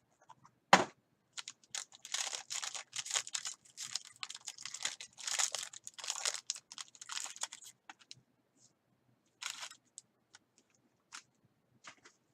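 A sharp click about a second in, then several seconds of plastic wrapping crinkling and tearing as a box of baseball cards is unwrapped, followed by a few scattered light clicks of handling.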